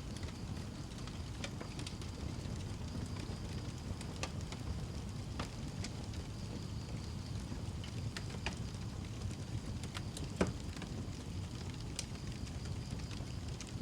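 Wood fire burning in a fireplace: a steady low rumble with scattered sharp crackles and pops, one louder pop about ten seconds in.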